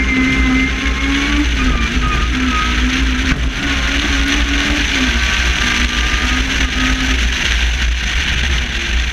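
A competition car's engine running hard at speed, its note rising and dipping with small breaks, fading out near the end. A heavy low rumble of wind and road noise runs underneath and grows louder about halfway through.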